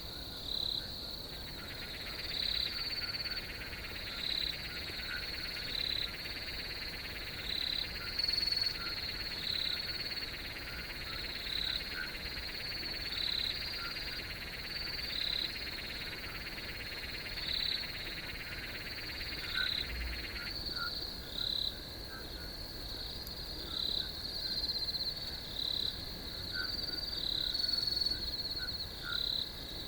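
Chorus of crickets trilling steadily, with brighter chirps repeating every second or two. A second, lower buzzing chorus runs through the first two-thirds and then cuts off suddenly.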